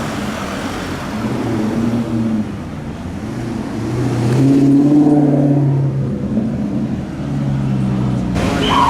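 Maserati GranTurismo's V8 engine accelerating, its note swelling to a peak about halfway through, then easing off.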